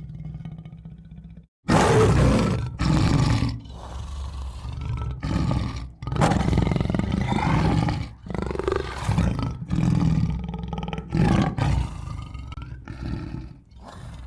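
Tiger roaring and growling: a string of loud roars with short gaps between them, beginning suddenly about a second and a half in.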